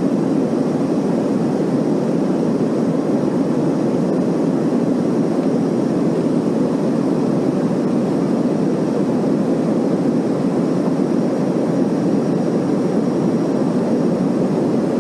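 Airliner cabin noise in cruise: a steady, deep rush of engines and airflow that holds an even level, with a faint thin high whine above it.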